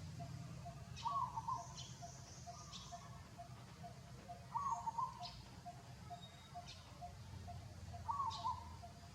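Bird calls: a short call repeated about every three and a half seconds, over a steady fast pulsing chirp and scattered high chirps.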